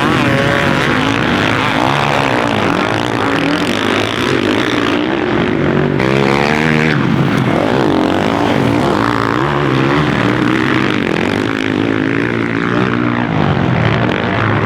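Several motocross bike engines revving up and down as they race, their pitches rising and falling over one another.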